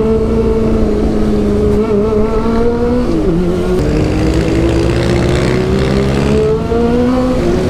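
Honda CB400's inline-four engine through a Two Brothers aftermarket exhaust, accelerating hard at high revs. The pitch climbs steadily, drops at an upshift about three seconds in, then climbs again until another upshift near the end.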